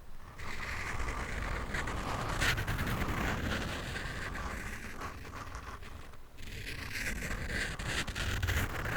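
Close-up scratching on a microphone, a continuous rough scraping with deep handling rumble and quick bursts, broken by a brief pause about six seconds in.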